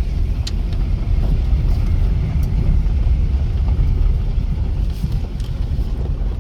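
Dodge Intrepid being driven slowly: a steady low rumble of engine and rolling car, with a few light clicks.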